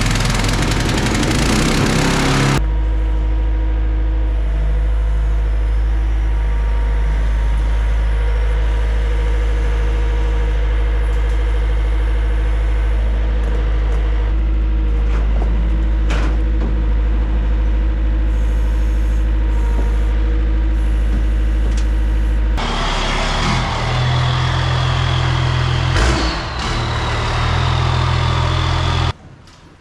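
Pressure washer's gas engine running steadily at a constant pitch, with a loud hissing noise over it for the first couple of seconds. About three quarters of the way through it turns rougher and noisier with a higher hum, then cuts off suddenly near the end.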